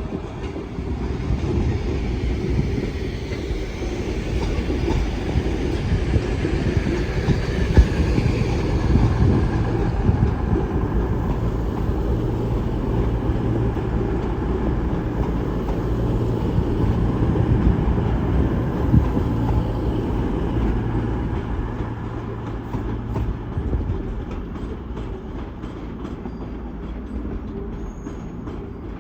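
Train running: a steady rumble with a low engine-like drone that builds up over the first few seconds, holds, then eases off toward the end.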